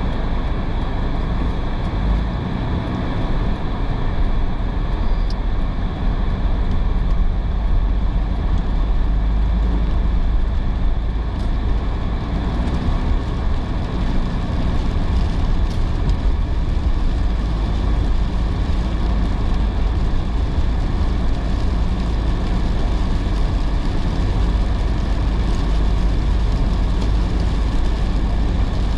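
A car driving on wet roads in heavy rain: a steady low road rumble with an even hiss of tyres and rain over it.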